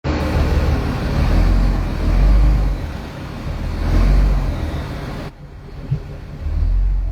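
An engine running under a heavy, uneven low rumble; the hiss over it drops away abruptly about five seconds in while the rumble carries on.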